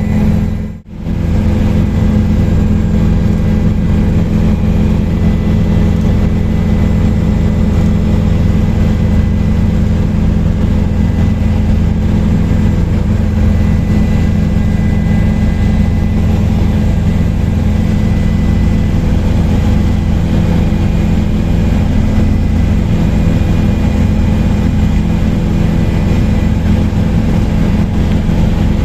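Helicopter in flight, heard from aboard: a steady, loud drone of engine and rotor with several fixed tones. The sound cuts out briefly just under a second in, then carries on unchanged.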